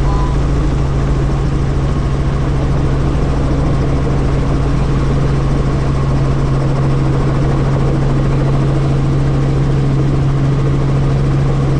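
Helicopter running in flight as heard on board: a steady low drone from the engine and rotors over an even rushing noise.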